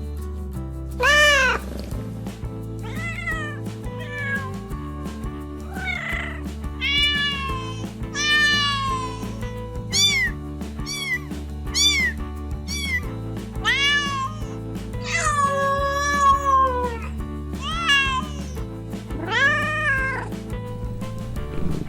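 Domestic cat meowing repeatedly, about a dozen separate meows that rise and fall in pitch, one every second or two, over background music.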